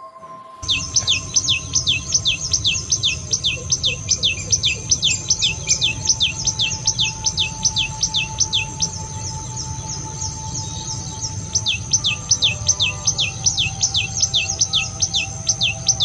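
Common tailorbird singing: a loud, fast series of sharp downslurred notes, about three to four a second. The series breaks off for a couple of seconds midway, then starts up again. A steady high background drone runs beneath it.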